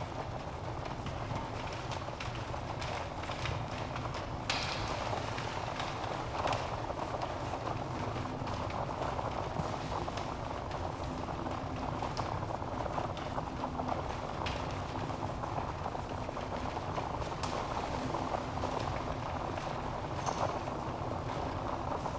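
Wood fire burning in a fireplace: a steady rushing hiss of flames with irregular crackles and pops from the logs, a few sharper pops standing out now and then.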